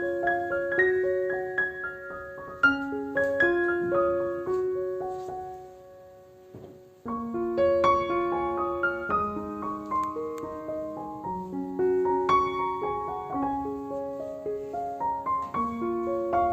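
Gentle solo piano background music, with individual held notes. It fades out about five seconds in and starts again a second or two later.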